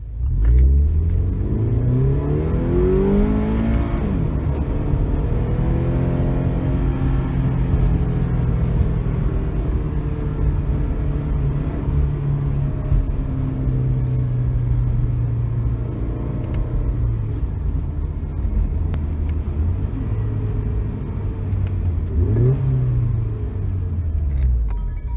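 Toyota 86 flat-four engine through an aftermarket Kakimoto Class KR exhaust, heard from inside the cabin: it revs up hard for about four seconds, drops as the automatic gearbox upshifts, pulls again, then settles into a steady drone. A short rise and fall in revs comes near the end.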